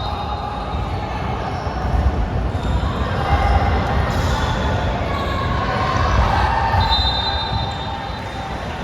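Basketball game play: a ball bouncing on a gym floor amid indistinct voices of players and onlookers, with a brief high squeak about seven seconds in.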